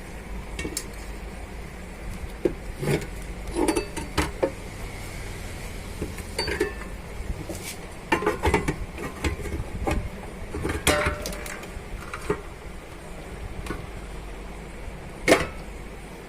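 Small metal tools and parts clinking and tapping as they are handled on a workbench during soldering work, in scattered irregular knocks, with one sharper knock near the end.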